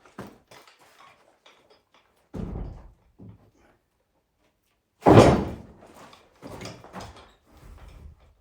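A dull thud, a small knock, then a loud slam about five seconds in that rings out for about a second, followed by a few lighter knocks.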